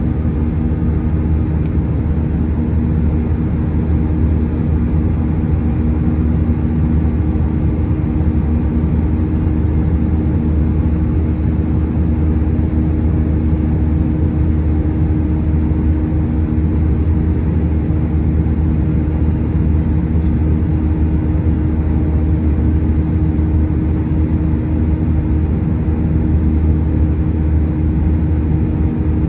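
Steady drone of an Airbus A320-211 heard inside the cabin, its CFM56 jet engines and airflow making a deep, even hum with a few steady tones above it.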